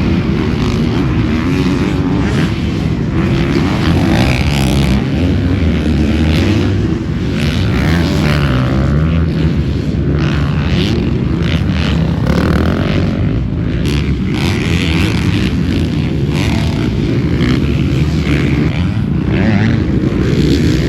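Motocross dirt bike engine running hard, its pitch rising and falling as the rider works the throttle through the track.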